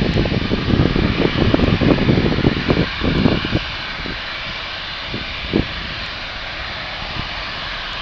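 Boeing C-17A Globemaster III's four Pratt & Whitney F117 turbofans at takeoff power after departure: a steady jet noise with heavy low rumble and crackle for the first few seconds, easing after about four seconds.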